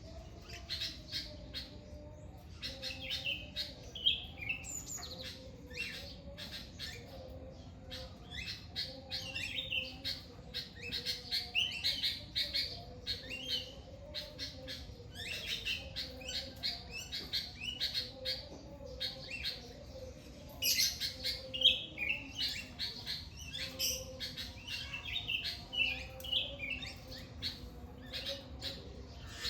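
Several birds chirping and calling at once, a dense chorus of short, high chirps and twitters.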